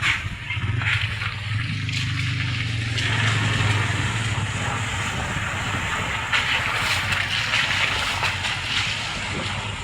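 A motor vehicle driving through muddy flood water: its engine hums low and steady for the first few seconds. A broad rushing wash of water builds about three seconds in as the wheels plough through.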